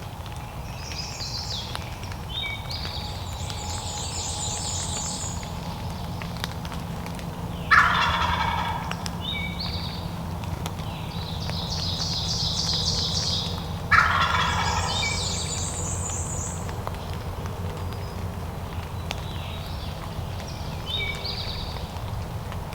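Wild turkey gobbler gobbling twice, loud, about eight seconds in and again about six seconds later, each gobble a rapid rattling call lasting about a second. Fainter, high-pitched rapid chirping trills from other birds come and go between them.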